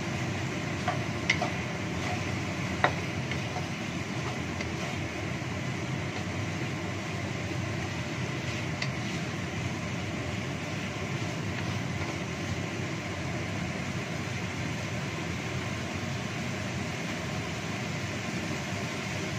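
Steady hiss of chicken wings frying in sauce in a wok over a gas flame. There are a few sharp knocks of the wooden spatula against the wok in the first few seconds while the wings are stirred.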